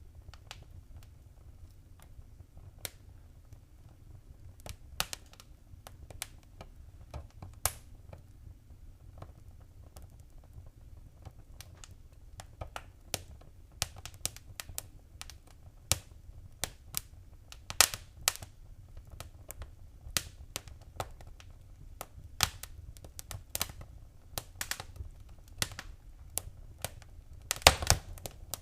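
Wood fire crackling in a fireplace: irregular sharp pops and snaps over a low steady rumble, with a cluster of louder pops near the end.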